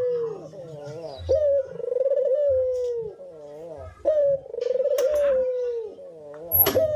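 Brenggolo dove cooing: long, wavering, slowly falling coos, about three in a row, each opening with a short higher note. A couple of sharp clicks come near the end.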